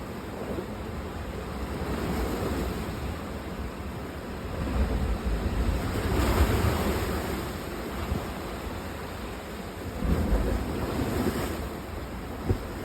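Sea waves washing ashore with wind, the surf swelling and ebbing in three slow surges. A short thump near the end.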